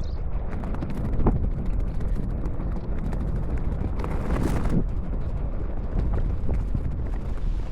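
Inline skate wheels rolling fast on pavement, with a steady rumble and scattered clacks over joints and cracks, under wind buffeting the microphone at speed.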